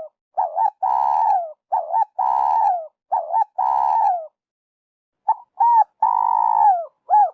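Spotted dove cooing: repeated phrases of short paired coos and longer held coos that drop in pitch at the end, with a pause of about a second just past the middle before the calling resumes.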